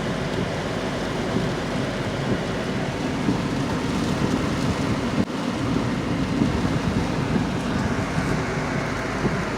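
Steady rain falling, mixed with the steady running of an idling car engine.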